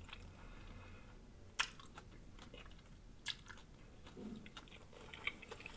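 Faint close-up chewing with a few sharp wet mouth clicks spread through, a mouthful of food being chewed.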